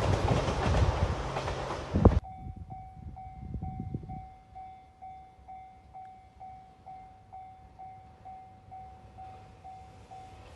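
JR 2700 series diesel express train passing close by with a loud rush of wheels and engine. About two seconds in this cuts off abruptly to a level-crossing warning bell dinging steadily about twice a second, with the train's rumble fading away beneath it.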